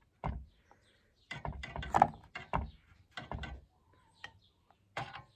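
Irregular scrubbing strokes and small knocks of a brush working a second coat of treatment into an old wooden planter, with the strokes bunched in the middle stretch and a few sharper clicks.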